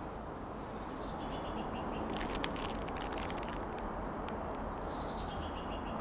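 Steady background hum and hiss with faint bird chirps twice, each a short falling run of high notes. A few light clicks come about two seconds in.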